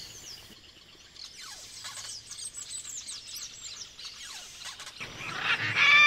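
Birds calling: many thin, high chirps and short falling whistles, then about five seconds in, louder repeated bird calls start up.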